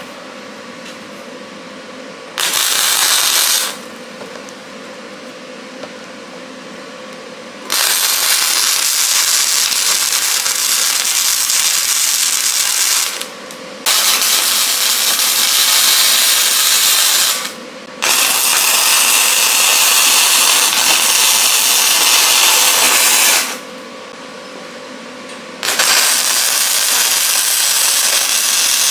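Electric arc welding steel: five runs of steady hiss, the first about a second long and the rest several seconds each, with a faint steady hum between runs.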